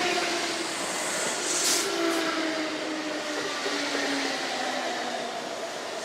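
Kintetsu electric train running past, its motors whining in a few tones that slowly fall in pitch over steady rolling noise. Two brief hisses come about two seconds in.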